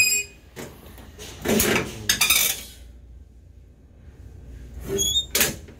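Metal clinking and rattling from handling at an electrical breaker panel: a short ringing clink at the start, a scraping rattle about a second and a half in, and another ringing clink about five seconds in.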